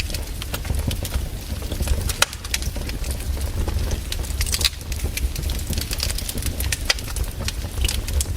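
Fireplace wood fire crackling, with irregular sharp pops and snaps over a low steady rumble.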